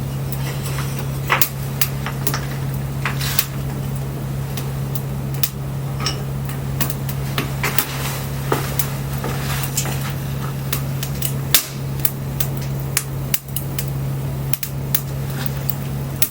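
Wood campfire crackling, with irregular sharp snaps and pops over a steady low hum.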